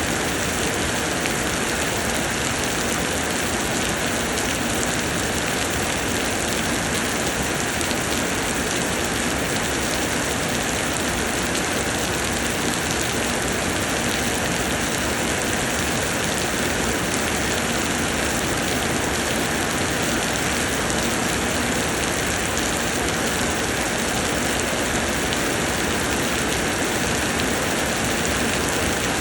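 Summer rain pouring down steadily: an even, unbroken hiss of falling rain.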